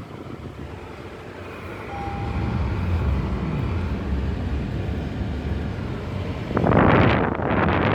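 Car air conditioning running: a steady low rumble from the blower, then a loud rush of air about six and a half seconds in, as if the vent airflow hits the microphone.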